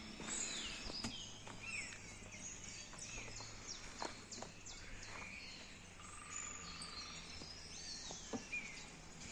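Several wild songbirds chirping and calling at once, with many short whistles that slide downward in pitch.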